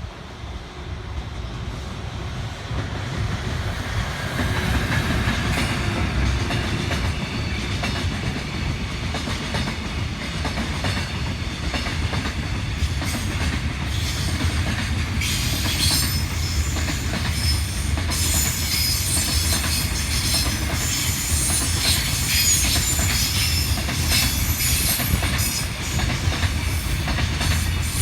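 A container freight train hauled by an EF210 electric locomotive passing close by. It grows louder over the first few seconds, then the long line of wagons runs past with a steady low rumble, rhythmic wheel clatter, and high-pitched wheel and rail squeal through most of the second half.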